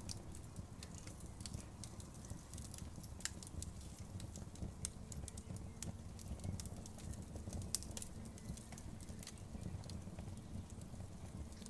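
Wood campfire burning, with irregular crackles and snaps over a steady low rumble, and a couple of sharper pops.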